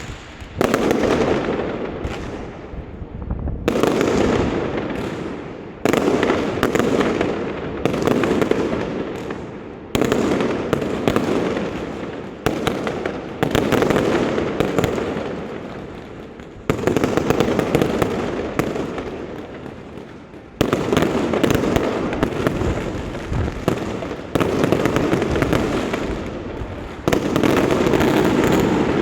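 Aerial fireworks display: about a dozen loud bursts roughly every two seconds, each going off suddenly and fading away over a second or two before the next.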